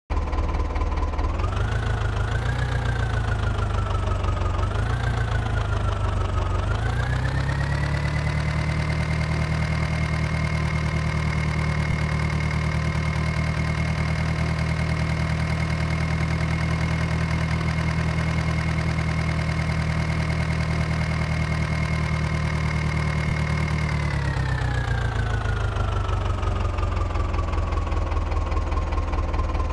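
Tractor engine idling, blipped twice, then revved up about seven seconds in and held steady at a higher speed for a long stretch before slowly dropping back to idle near the end.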